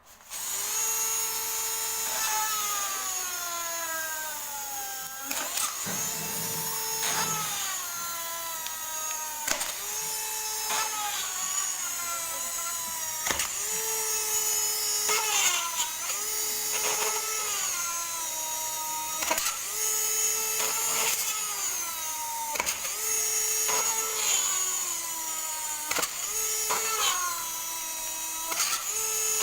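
Homemade 12 V mini cutting and drilling tool, driven by a modified 550 DC motor, running with a high whine. Over and over, about every two seconds, the pitch sags as the motor is loaded against the work and then jumps back up when it is let off.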